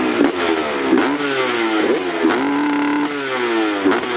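Motocross bike engine revving hard, its pitch sweeping and resetting about once a second as the throttle and gears change, with a brief steadier stretch near the middle.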